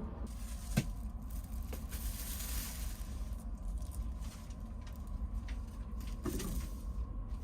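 Steady low rumble inside a train carriage, with a sharp click about a second in and a couple of stretches of hiss.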